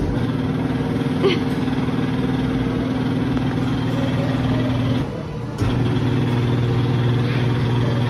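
Electric blower motor of a hands-on air exhibit, switching on with a steady hum. It cuts out briefly about five seconds in, then starts again at a slightly different pitch.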